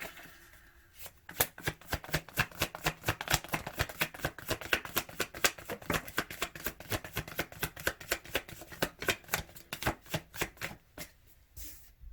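Tarot cards being shuffled by hand: a rapid, continuous run of card slaps and riffles that starts about a second in and dies away near the end.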